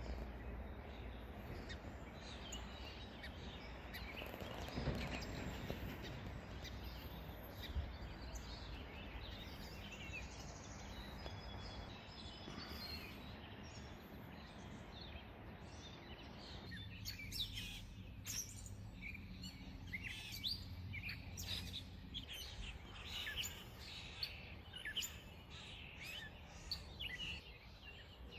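Songbirds chirping and singing over a steady low background rumble. The chirps grow busier and clearer in the second half, as the rumble in the middle range drops away.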